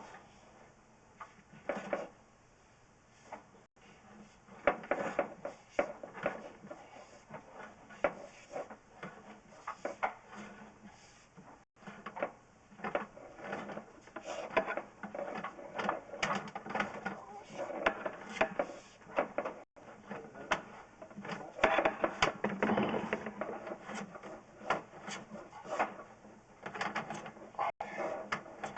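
Irregular rubbing, scraping and knocking of a drain inspection camera and its push rod being fed through a drain line, with denser clatter in the second half.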